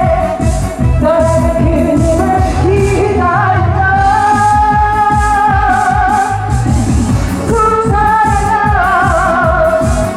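A Korean trot song sung live over a backing track with a steady beat. The vocal line has long held notes with vibrato.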